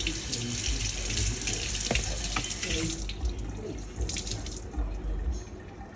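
Water running from a kitchen tap into the sink, with scattered clinks and knocks. The flow eases off about three seconds in and stops shortly after.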